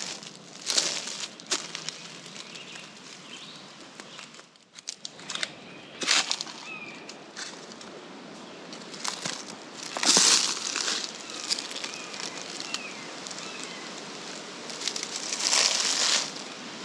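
Footsteps crunching and rustling through dry leaf litter and twigs, in an uneven walking rhythm with a few louder crunches, and faint bird chirps in the background.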